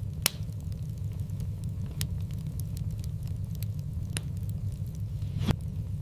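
Wood fire burning in a fireplace with a steady low rumble and sharp crackles and pops, four of them, the loudest shortly after the start and near the end.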